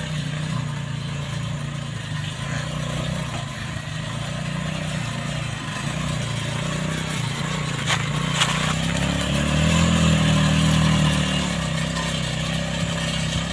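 An engine running steadily. It works harder, louder and a little higher, for about two seconds around nine seconds in, just after two sharp clicks.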